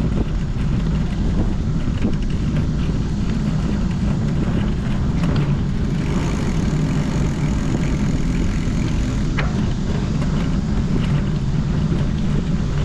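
Steady low rumble of wind on the microphone and tyre noise from a bicycle moving along the road, with a faint click or two.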